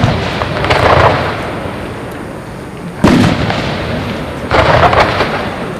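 Fireworks bursting: sharp bangs with rumbling, crackling tails, a second surge about a second in, another sharp bang about three seconds in and a longer crackling burst about a second and a half later.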